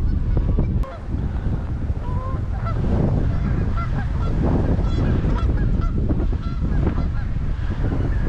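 Geese honking and calling in short, repeated notes, over heavy wind rumble on the microphone. A single sharp click comes about a second in.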